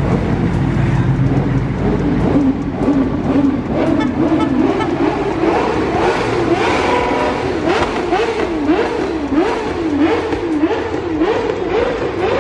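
A car engine being revved over and over at a meet, its pitch climbing and dropping in quick repeated blips that start a few seconds in.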